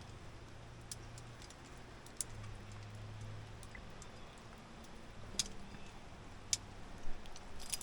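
Scattered sharp clicks and clinks of metal climbing gear, carabiners and rappel hardware being clipped and handled at an anchor, coming more thickly near the end.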